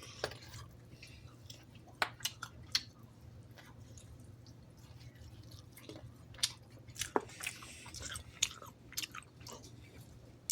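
Close-up mouth sounds of a person chewing chicken tenders, with scattered short wet clicks and smacks at irregular intervals over a steady low hum.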